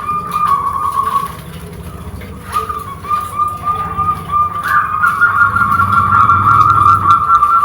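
Perkutut (zebra dove) singing in a high, trilling coo that pauses briefly about a second in and then carries on. A low rumble joins it in the second half.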